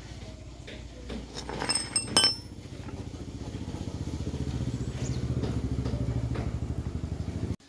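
Small motorbike gasoline engine running with a steady rapid pulsing, growing louder from about three seconds in, then cutting off suddenly near the end. A few sharp metallic clinks ring out about two seconds in.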